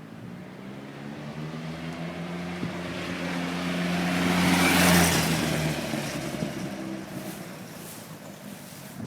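Suzuki Hayabusa GSX1300R motorcycle with a Yoshimura slip-on muffler passing by at a steady engine speed. It grows louder to a peak about five seconds in, then fades away.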